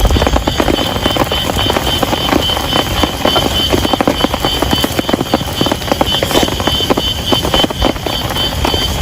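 Heavy rain: a dense, steady patter of drops hitting a surface, with a steady high-pitched tone running underneath.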